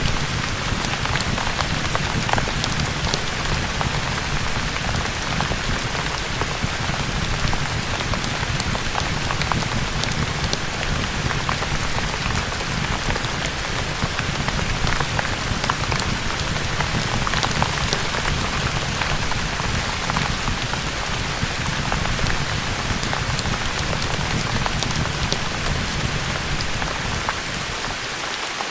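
Steady rain falling on a surface: an even hiss with a low rumble underneath, dotted with many small sharp ticks.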